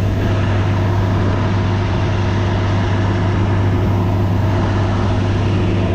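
Combine harvester running steadily at working speed, a constant low engine hum.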